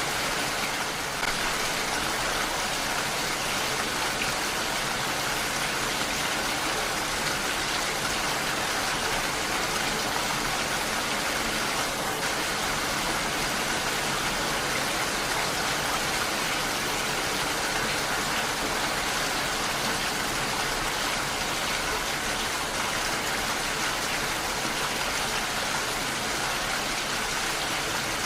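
Heavy rain falling steadily, an even hiss of rain.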